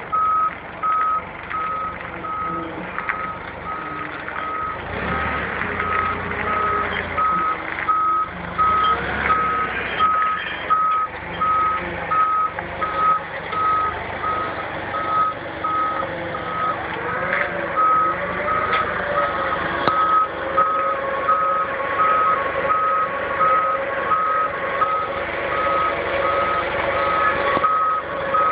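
A vehicle's reversing alarm beeping: one high tone repeating at an even rate, over the noise of the vehicle manoeuvring.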